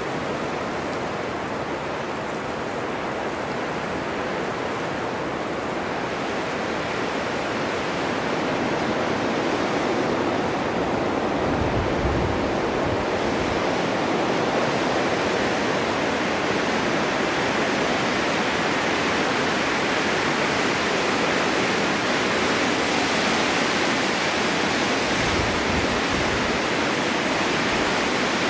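Strong winter wind blowing steadily in a snowstorm, a dense rushing noise that swells slightly stronger and brighter partway through, with a couple of brief low gusty rumbles.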